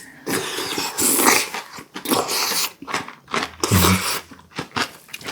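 Close-up eating sounds: chewing porridge with crunchy kimchi, with irregular wet crunches and mouth clicks.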